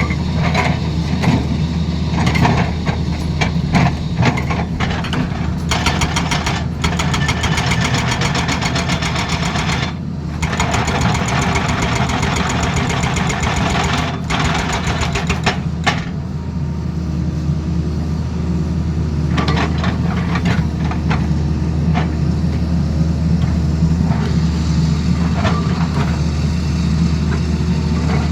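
Tata Hitachi Zaxis excavator's diesel engine running steadily. From about six seconds in until about sixteen seconds, a fast, rapid hammering typical of a hydraulic breaker sounds over it, with a short pause around ten seconds.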